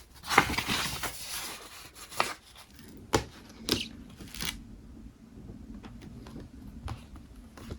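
Paper notebook pages being handled and flipped, rustling for about two seconds, followed by a few light taps or clicks as the notebook is moved.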